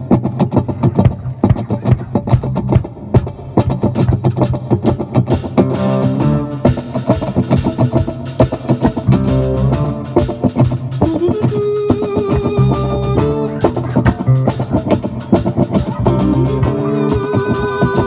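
A small live rock band playing an instrumental intro: drum kit keeping a steady beat, with bass and guitars. The cymbals get busier about five and a half seconds in, and a lead guitar plays held, bending notes near the middle and again near the end.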